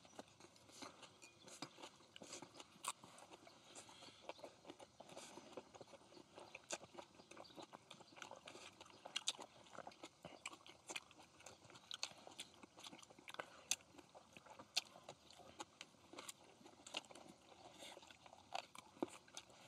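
Faint, irregular clicks and crunches of people chewing and biting into grilled pork belly and leafy wraps.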